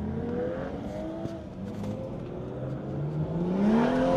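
Car engine accelerating: the revs climb steadily, and the engine grows louder and pulls harder near the end.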